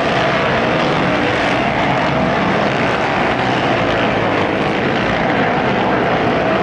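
Several motocross bikes racing on the track, their engines blending into a steady, loud drone whose pitch wavers slightly as the riders work the throttles.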